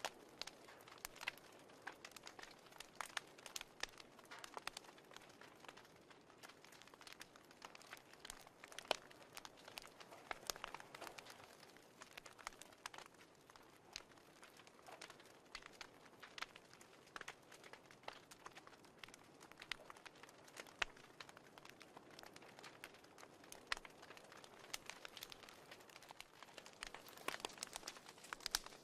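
Faint fireplace crackle: a wood fire popping and snapping irregularly, several small pops a second over a soft hiss.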